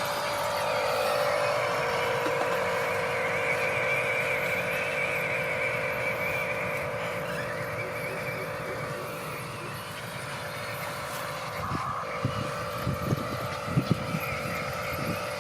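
Small electric motor of a radio-controlled construction toy whining steadily, its pitch shifting slightly, with several knocks and thuds about twelve to fourteen seconds in.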